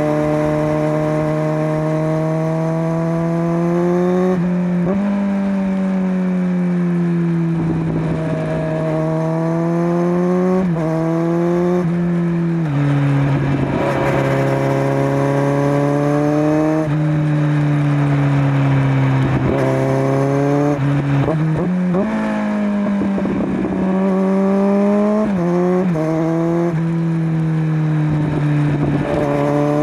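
Kawasaki Z900's inline-four engine breathing through a LeoVince LV10 slip-on exhaust while the bike is ridden: the engine note climbs steadily under throttle and drops sharply several times as gears change or the throttle closes, with a rushing noise swelling at times.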